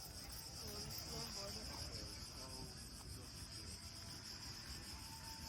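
A steady, high-pitched chorus of insects chirring without a break, over a low outdoor hum.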